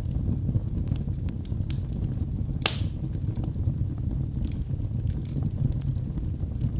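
Wood fire burning in a fireplace: a steady low rumble of flames with scattered small crackles and one louder pop about a third of the way in.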